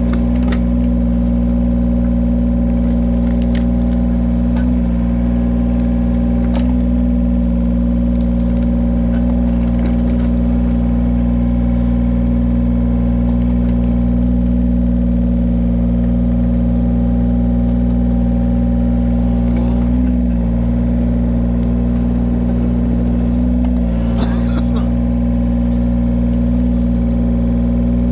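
Engine of a firewood-cutting machine running steadily at constant speed, with a few short sharp knocks or cracks over it.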